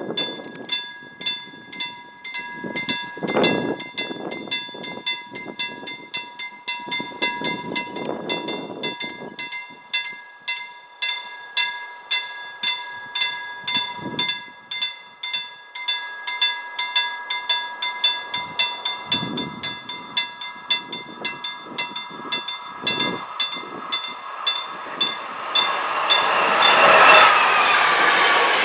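Level crossing warning bell ringing in even, rapid strokes. Near the end an approaching InterCity train's wheel and rail noise rises and grows louder than the bell.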